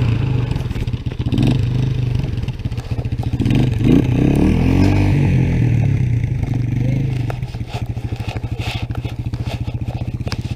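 Honda ATC three-wheeler's single-cylinder engine revving up and down while the machine is stuck in snow, then settling to a steady idle about seven seconds in.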